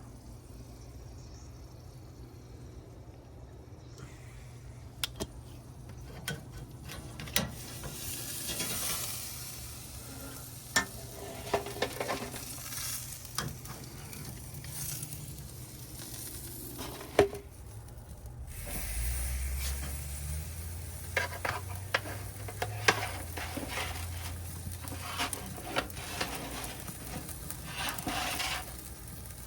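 Brussels sprouts sizzling in butter in a pan, stirred with a utensil that clicks and knocks against the pan now and then. The sizzle swells and fades with the stirring.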